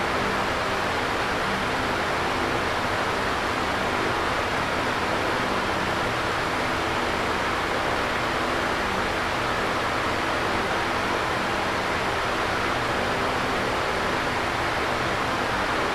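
Electric fan running steadily: an even whooshing rush of moving air with a faint low hum underneath.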